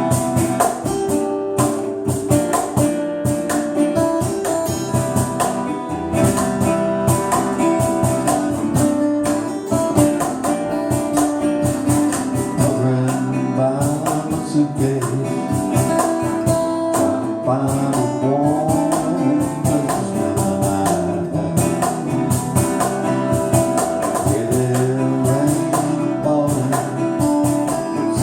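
Band playing a slow song, opening just after a count-in, with strummed acoustic guitar over a steady beat of sharp percussion strokes. Pitched melody lines bend through the middle.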